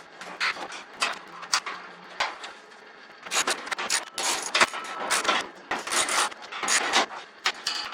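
Metal garage-door roller and bracket hardware being handled and refitted: a few scattered clicks, then from about three seconds in a busy run of short, irregular clinks, rattles and scrapes.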